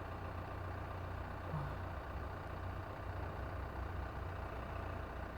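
Quiet background with a steady low hum and no other clear sound.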